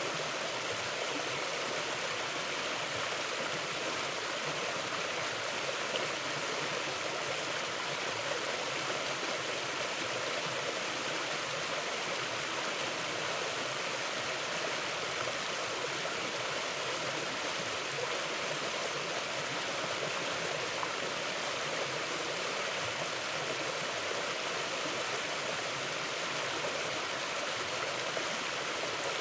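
River water flowing over rocks: a steady rushing and gurgling that keeps an even level throughout.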